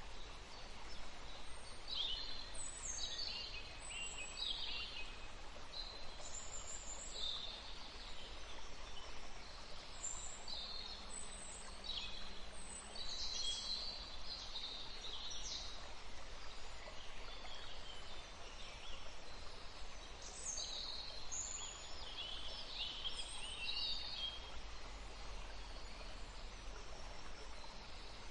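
Songbirds chirping and trilling in quick high runs, with a lull about two-thirds of the way through, over a faint steady rush of a forest stream.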